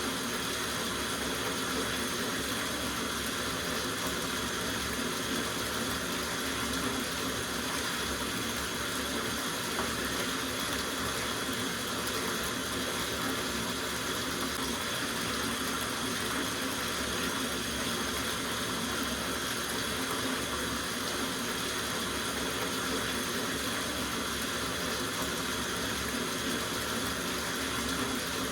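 Water running steadily from a tap into a soaking bathtub, an even unbroken rush.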